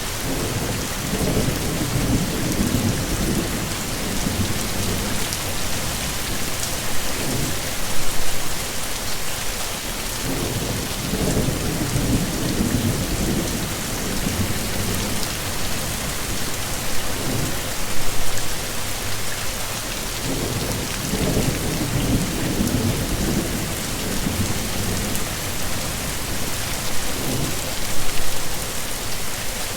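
Heavy rain pouring steadily, with low rolls of thunder rumbling in every few seconds.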